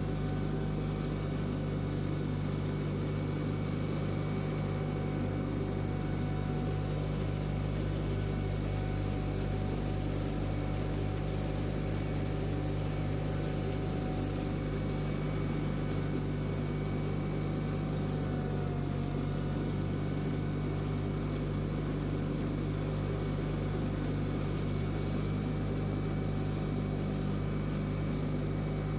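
John Deere 318 lawn tractor's Onan two-cylinder engine running steadily while mulching leaves. Its pitch dips briefly about two-thirds of the way through, as if it took a moment of load.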